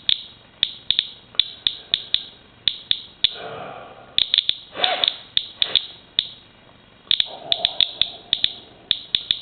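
Inspector Geiger counter clicking at random intervals, a few clicks a second, as it counts the radioactivity of a rainwater sample.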